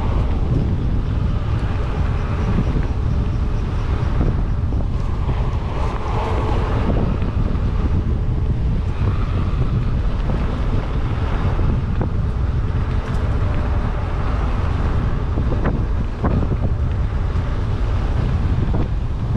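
Strong wind buffeting the microphone, a constant heavy low rumble, during a mountain-bike ride over rough ground, with a couple of sharp knocks near the end.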